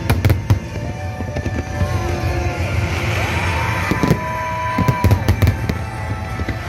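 Fireworks display: a quick run of bangs and crackles just after the start and another cluster about four to five seconds in, over a steady low rumble and music.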